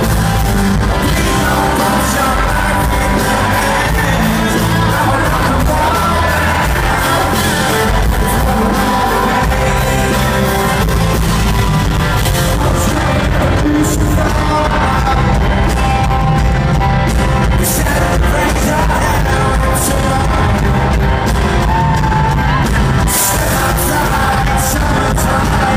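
Live rock band playing at full volume: singing over guitars, bass and drums, with steady cymbal hits and shouts from the audience, heard through the echo of a large hall.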